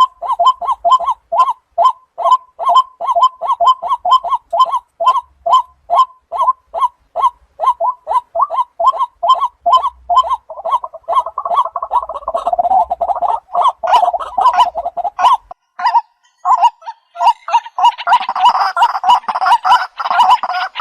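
Waterhen calling, a fast repeated call about three times a second that becomes a denser, louder run of overlapping calls near the end.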